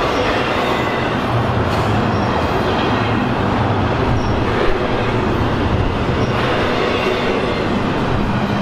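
Double-stack intermodal well cars of a freight train rolling past, their steel wheels running on the rails in a steady rumble. Faint high wheel squeal comes now and then, and there is one sharper clank a little past the middle.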